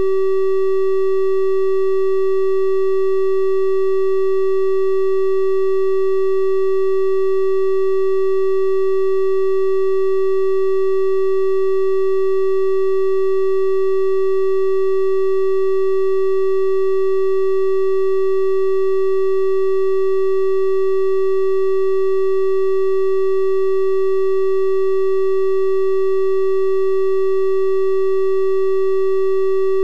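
Steady synthesised 384 Hz triangle-wave tone, held unchanging at one pitch with faint overtones above it.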